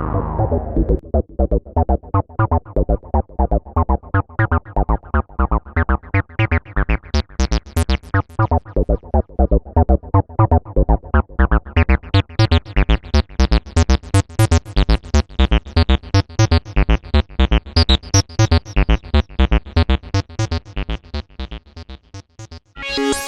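ASM Leviasynth synthesizer playing a fast sequence of short plucked notes, about four to five a second, the tone growing brighter toward the middle and dulling again later. Near the end a different, denser sustained patch comes in.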